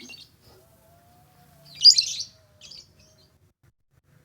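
Pet bird chirping: a few short, high chirps, the loudest a burst about two seconds in.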